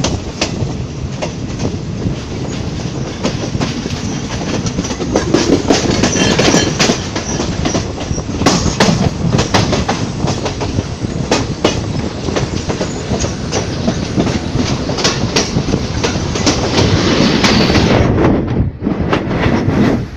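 Passenger train running at speed, its wheels clattering over rail joints: a fast, irregular run of clicks over a steady rumble. There is a brief dip in the noise near the end.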